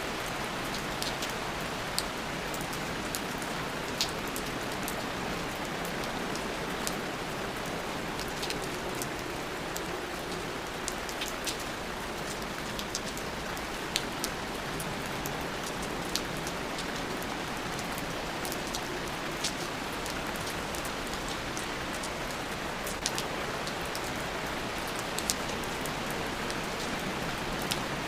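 Steady rain falling, an even hiss with many sharp individual drops pattering close by throughout.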